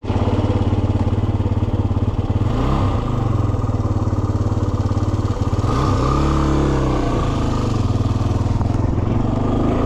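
2010 Yamaha WR250R's single-cylinder engine running while riding, its pitch rising and falling twice with throttle changes, under heavy wind noise.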